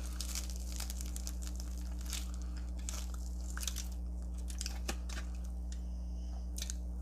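Close-up chewing of crunchy Flamin' Hot Cheeto-crusted fried chicken wings: a scattered string of small crisp crackles and crunches, over a steady low electrical hum.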